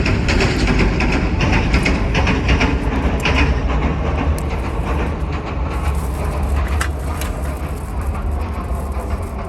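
A train passing close by: a heavy steady rumble with rapid wheel clatter, easing off toward the end.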